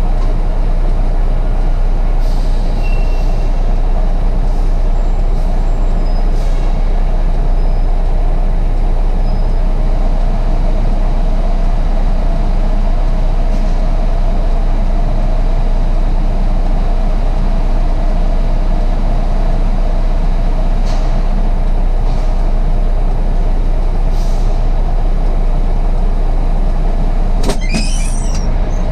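Semi truck's diesel engine running steadily, with a few light clicks and a brief high squeal near the end.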